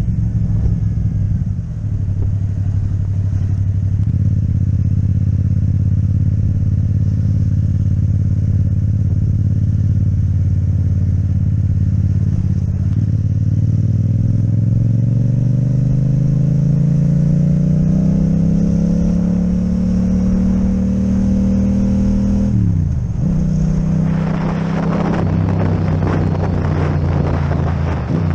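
Yamaha MT-07 parallel-twin engine through an Akrapovic exhaust, running steadily under way, then rising slowly in pitch for about ten seconds as the bike accelerates. Its pitch drops sharply about 23 seconds in, at a gear change or throttle-off, and then holds steady under a rushing noise.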